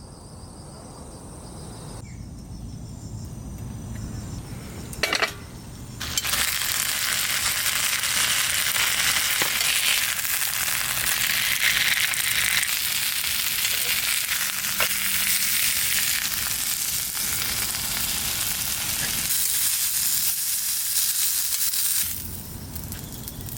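A short knock about five seconds in, then a loud, steady hiss that sets in suddenly about six seconds in and drops away just before the end.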